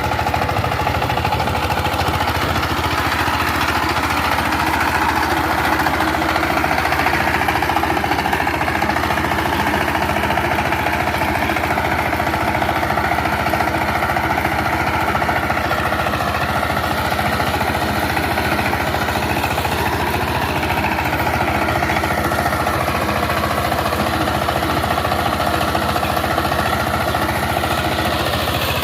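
Power tiller's diesel engine running steadily at idle, with an even, rapid firing pulse.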